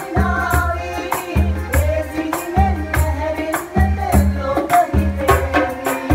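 Sinhala calypso-style pop song: a voice singing over a steady bass and drum beat with light hand percussion.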